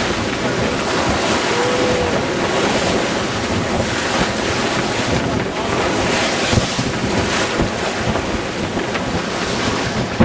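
Wind buffeting the microphone and waves rushing and splashing along the hull of a sailboat under way in rough water, a steady rushing noise.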